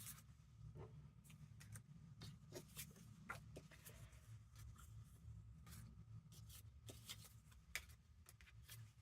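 Faint rustling and light taps of paper ephemera pieces being picked through and handled, over a low steady hum.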